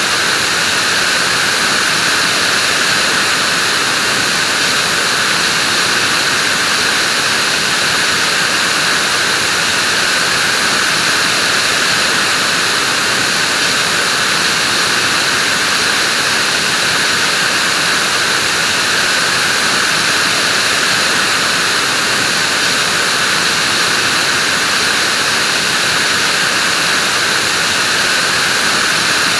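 Vacuum cleaner running steadily: an even, unchanging rushing hiss, strongest in the upper range, with no pauses.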